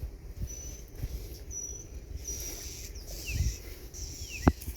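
Birds chirping: short high notes repeated about once a second, then quicker falling chirps near the end, over a low rumble of wind or handling noise, with one sharp click just before the end.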